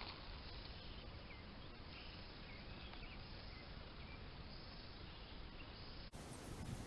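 Faint outdoor background with a few short, high bird chirps. About six seconds in, the sound changes abruptly to a hissier background with faint ticks.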